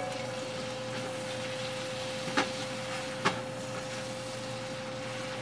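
Butter, oil and garlic sizzling in a stainless steel stockpot as they are stirred, with two sharp knocks of the stirring utensil against the pot about a second apart midway; a steady hum runs underneath.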